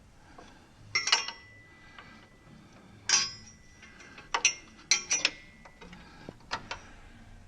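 Metal clinks with brief ringing as a steel return spring is hooked onto a Willys Jeep's clutch linkage: a sharp clink about a second in, another about three seconds in, then a quick cluster of clinks around five seconds and one more near the end.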